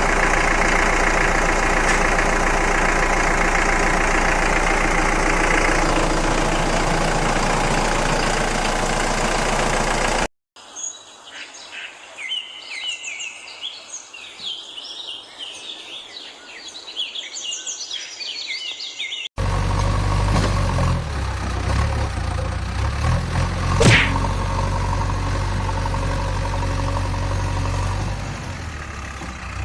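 A vehicle engine running steadily. About ten seconds in it cuts abruptly to birds chirping, and after about nine seconds the engine sound cuts back in, with one sharp click partway through.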